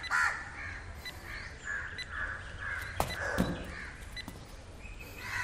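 Birds calling over and over in short, repeated calls, with one sharp click about three seconds in.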